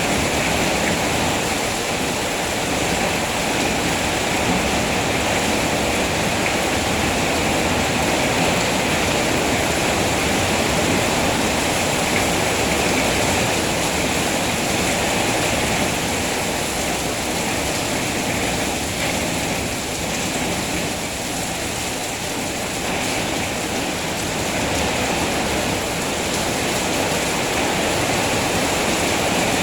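Steady rain falling, an even rushing hiss with no separate drops, knocks or thunder standing out, easing slightly for a few seconds about two-thirds of the way through.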